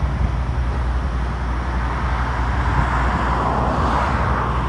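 Wind rumbling on the microphone, with a vehicle passing on the road that swells to its loudest about four seconds in and then fades.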